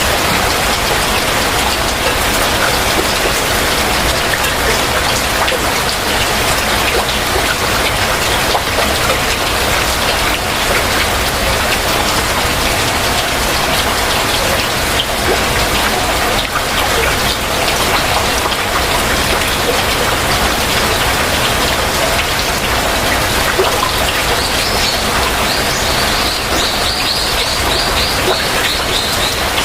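Heavy rain falling steadily. Near the end, a bird calls in a quick series of short, high, repeated notes.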